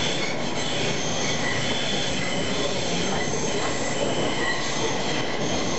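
Tram running on its rails, with a steady rumble and high wheel squeal; the squeal fades near the end.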